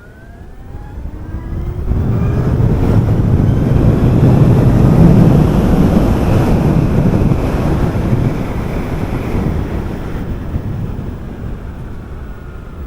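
Electric motorcycle accelerating: a rising motor whine over the first two seconds, then heavy wind rushing over the microphone that builds and slowly eases off.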